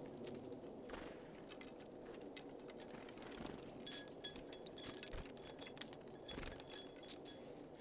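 Small birds at a feeder: a scatter of sharp taps and clicks, busiest from about four to five and a half seconds in, with a few short high call notes among them.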